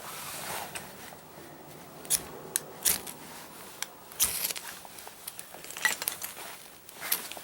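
About five loud, very short sharp snaps, some with a brief scrape, spaced a second or so apart: dry kindling being prepared for a campfire.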